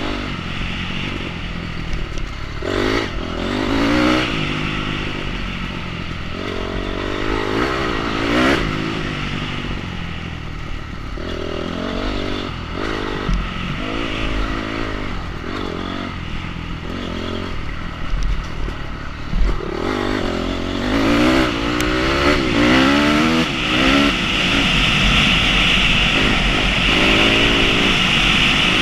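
Enduro motorcycle engine revving up and dropping back again and again, with rattling and clatter. In the last several seconds it holds a steadier, higher note.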